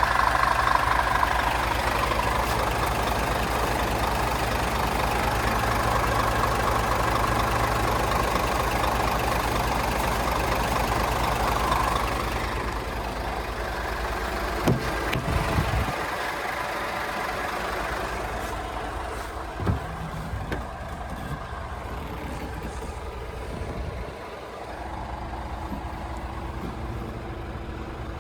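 Scania G500 truck's 13-litre six-cylinder diesel engine idling steadily. About twelve seconds in it becomes quieter and duller, with a few short thumps around fifteen and twenty seconds in.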